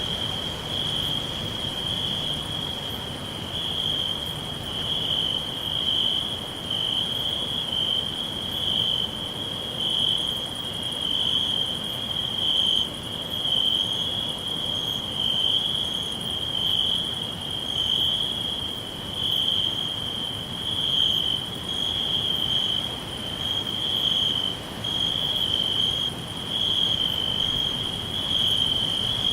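Crickets chirping in a continuous chorus, a steady high trill that swells and fades about every two seconds, with a fainter, higher pulsing call above it.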